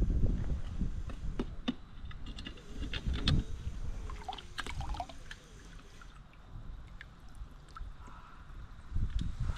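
Water splashing and dripping with scattered clinks and knocks as a steel part is lifted from a degalvanizing bath and rinsed.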